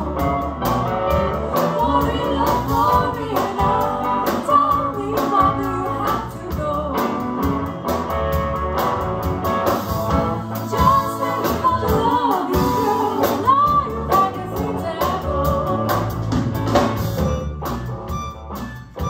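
Live blues-folk band playing, with a voice singing over guitar accompaniment.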